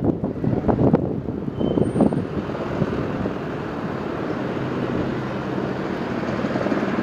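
Steady low engine rumble, with irregular gusty buffeting over the first two to three seconds.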